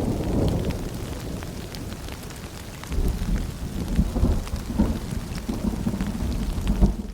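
Rain pattering steadily, with a low thunder rumble that fades over the first couple of seconds and rolls in again about three seconds in.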